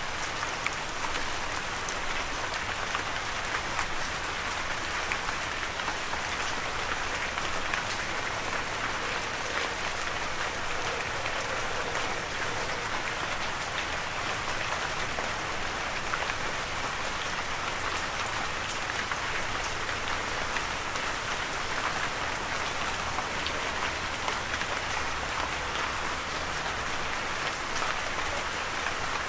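Steady rain falling, a constant hiss thick with the patter of individual drops.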